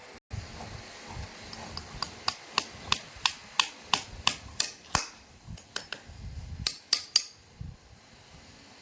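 Farrier's hammer striking metal, sharp ringing taps about three a second in a steady run, then a short pause and a few more quick strikes near the end.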